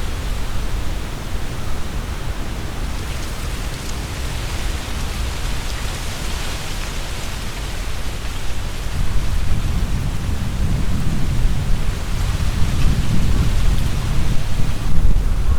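Strong wind gusting through trees, with leaves rustling and a heavy low rumble of wind buffeting the microphone. The leaf rustle swells about a third of the way in, and the gusts grow louder over the second half.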